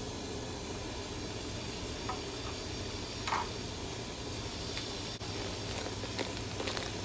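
Steady background hiss with a few light clicks and taps from a small bird feeder being handled.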